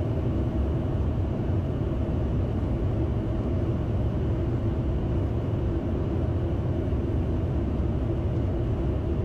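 Steady cockpit noise of a Bombardier Challenger 650 business jet on approach with the landing gear down and flaps at 20: an even, low rush of airflow and engine noise that holds constant.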